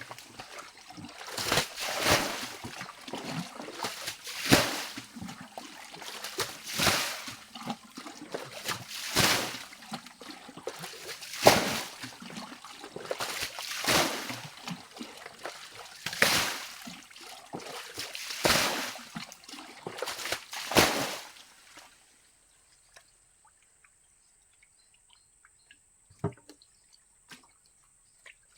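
Water being scooped and thrown out by hand to drain the pool: a splash of flung water about every two seconds, in a steady rhythm, about ten times, stopping about 22 seconds in.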